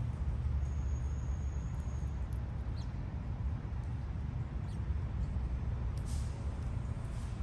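Small birds chirping faintly with a few short high calls and one thin, held whistle-like note early on, over a steady low rumble that is louder than the birds.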